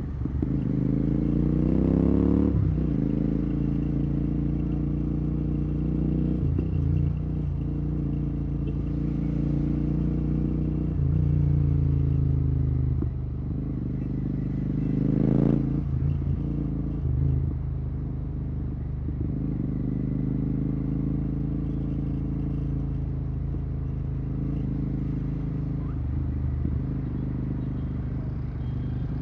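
Royal Enfield Continental GT 650's parallel-twin engine running through Red Rooster exhausts with the dB killers removed, on the move in traffic. The note rises as the bike pulls away over the first couple of seconds and then holds at cruising revs. About halfway through it gives a quick rev climb and drops back.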